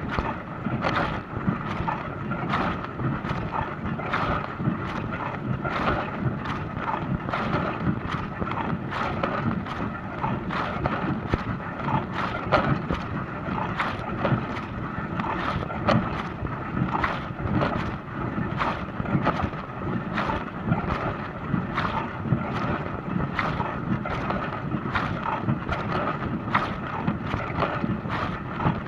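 Dishwasher running its wash cycle: a steady wash of sprayed water inside the tub, with a hum and many short irregular splashes.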